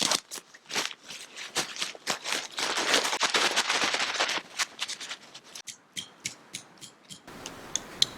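Nylon tent fabric being handled and pulled out, rustling, crinkling and crunching with sharp clicks, with a longer rustle about three seconds in. Near the end, after a cut, a run of evenly spaced light clicks.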